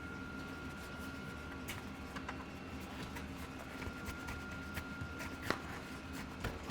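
Scattered small clicks and light rubbing from a bike tire and foam tire insert being worked by hand onto the rim, with one sharper click about five and a half seconds in, over a steady background hum.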